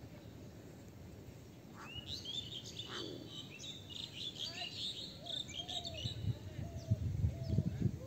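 Small birds chirping: a run of quick, high chirps starts about two seconds in and lasts a few seconds, with a lower wavering call through the second half and low thumps near the end.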